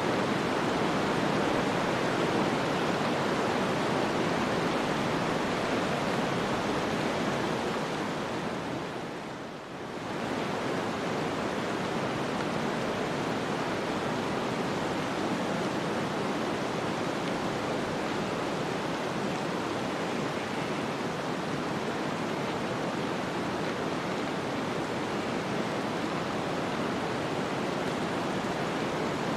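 Steady snowstorm wind, a dense even hiss with no distinct events, dipping briefly in level about nine seconds in before settling back.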